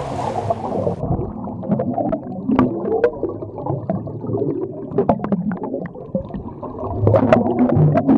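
Water heard through a submerged snorkeling camera: a muffled, dull rumbling and gurgling of water movement, with scattered sharp clicks and knocks. It cuts off suddenly at the end.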